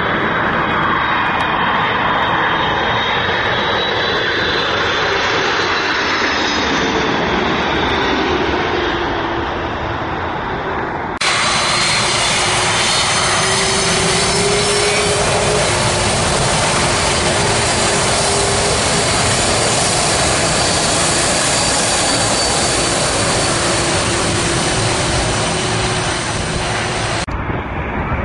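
Loud jet airliner engines passing low overhead, a steady rumble with high whining tones that slowly fall in pitch. About eleven seconds in, the sound cuts abruptly to another jet's engines with a lower steady whine, which cut off suddenly near the end.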